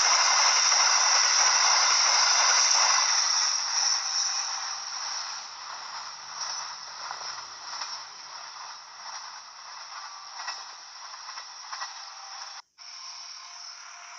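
A passing train's wheels and carriages rushing and rattling on the track, loud for about three seconds, then fading away as the train moves off, leaving scattered clicks and rattles.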